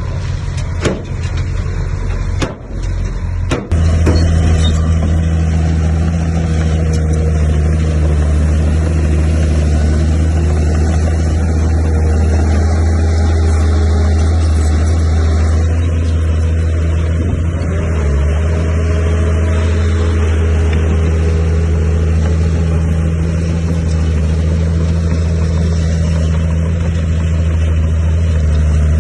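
A few sharp knocks in the first four seconds, then a heavy diesel engine of earthmoving machinery starts running steadily and loud, a low drone that holds to the end.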